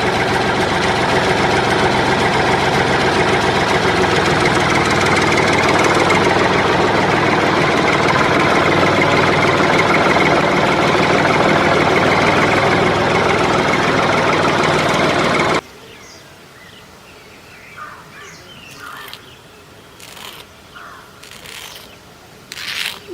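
A motor running loudly and steadily, cutting off abruptly about two-thirds of the way through; after that only faint scattered clicks.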